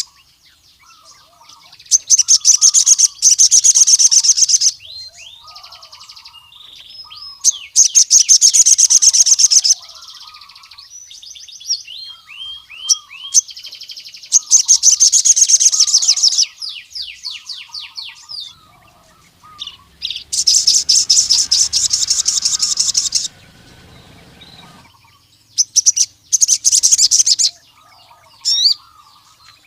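Male crimson sunbird (sogon) singing: five loud, very fast high trills of two to three seconds each, with softer chirps and sliding notes between them.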